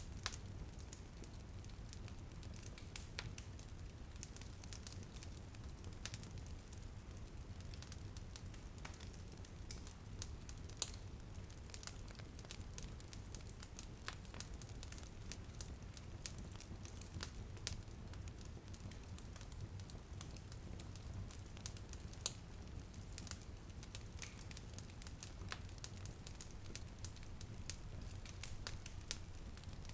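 Wood fire crackling in a fireplace: irregular sharp pops and snaps, a few louder ones about 11 and 22 seconds in, over a steady low rushing noise.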